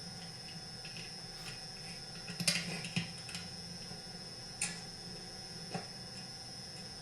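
Small metal chainsaw parts and screws being handled and set in place on a workbench: a few light clicks and knocks, a cluster of them about two and a half seconds in and single ones later, over a steady hiss with a thin high whine.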